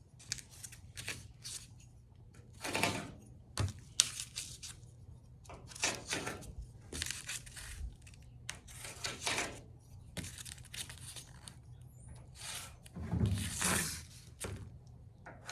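Soapstone scraping across the steel of a truck bed in a series of short scratchy strokes as a line is marked, the strongest near the end, with a couple of sharp clicks about four seconds in.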